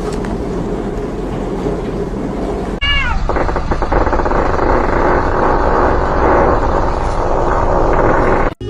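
A pet cat gives one short falling meow about three seconds in, over a loud steady rushing noise.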